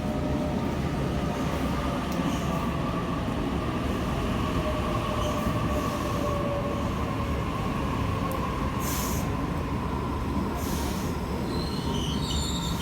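Waratah Series 2 electric train pulling into the platform, a steady rumble with a high whine that sinks slightly in pitch as it slows. Two short hisses come near the end.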